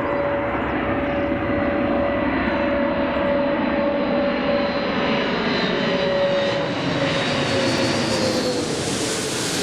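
Antonov An-124 Ruslan's four turbofan engines whining as the freighter comes in to land, a steady jet whine over a broad rush. Near the end the whine drops in pitch and the hiss grows as the aircraft passes by.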